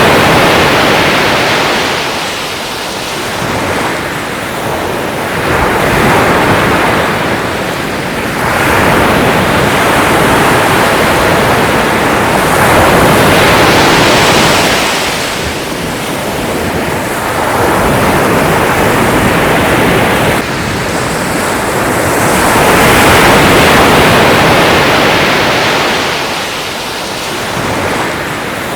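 Sea waves breaking and washing on a shore, the surf swelling and ebbing in slow surges every few seconds.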